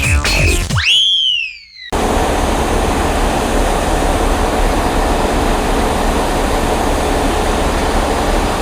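Electronic music ends with a rising-then-falling sweep. After a brief dip it cuts abruptly to a steady, loud rushing noise with a low rumble.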